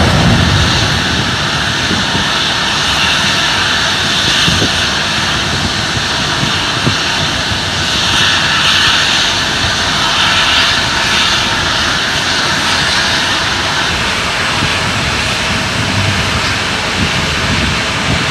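Steady, loud mechanical din from a palm-oil truck and the machinery at the unloading ramp: engine noise mixed with a hiss, unbroken and without a clear rhythm.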